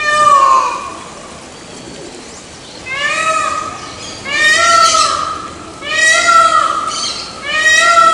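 Peacock calling: five loud, far-carrying wailing calls of about a second each, one at the start and then four in quick succession about a second and a half apart.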